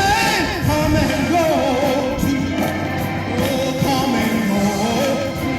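Hymn singing with instrumental accompaniment, with wind rumbling on the microphone.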